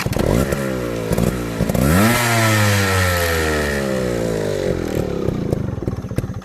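Yamaha RX 135's two-stroke single-cylinder engine, heard through its original stock 'cat' silencer. It starts suddenly and blips a couple of times, then revs up sharply about two seconds in. Its revs then fall slowly and steadily as the engine winds down and dies near the end.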